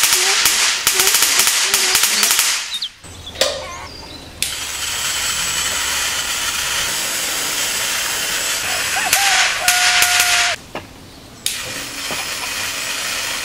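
High-voltage corona and arc discharge from a homemade ion thruster's high-voltage module and spiked electrode, a loud hiss full of rapid crackling. It cuts out about three seconds in, returns, and drops out again for about a second near the end before starting up again.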